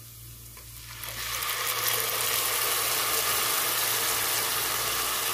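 Tomato purée poured into hot oil with fried cumin, green chilli, garlic and ginger, setting off a sizzle about a second in that swells and then holds steady.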